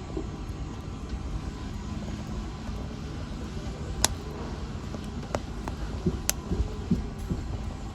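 Wood fire burning in a fireplace: a steady low rumble with a few sharp crackles and pops, the loudest about four seconds in.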